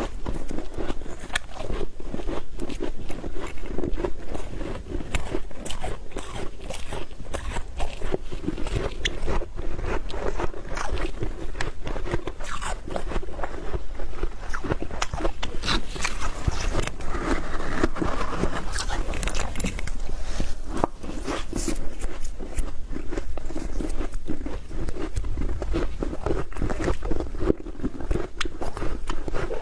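Soft frost being crunched: dense, continuous crunching and crackling with no pauses.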